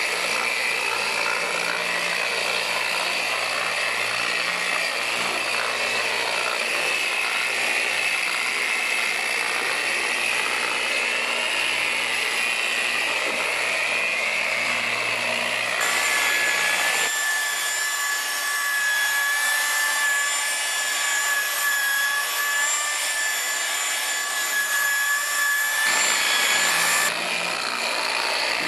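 Electric paint polisher (buffer) running steadily on a car's body panel, its motor giving a continuous whine that wavers in pitch as it is worked across the paint to remove swirls. About 16 s in the sound changes abruptly to a steadier, higher whine with no low rumble, and returns near the end.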